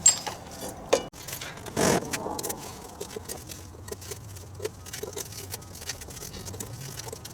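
Metal clanks and clinks from hand work on a mower, tools and parts knocking and scraping: three louder knocks in the first two seconds, then lighter scattered clicks.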